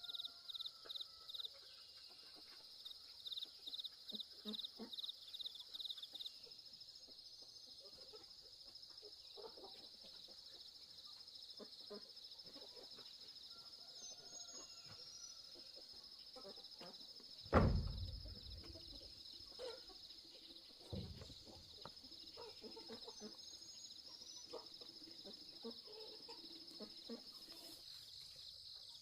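Insects drone as one steady, high, continuous tone, with a run of quick pulsed chirps in the first few seconds and a few short bird chirps now and then. A single loud thud comes about two-thirds of the way through, and a lighter one a few seconds later.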